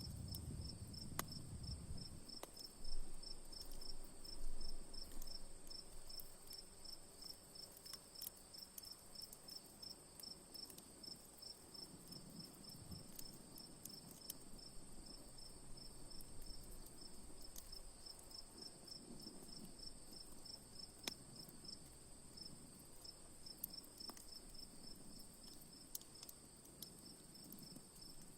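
Campfire crackling with scattered sharp pops, two louder ones a few seconds in. Underneath runs a steady high-pitched insect trill and an even chirping about three times a second.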